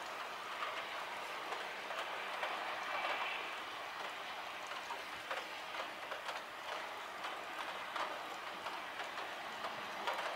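Heavy rain falling steadily: a dense, even hiss with scattered sharp taps of drops landing close by.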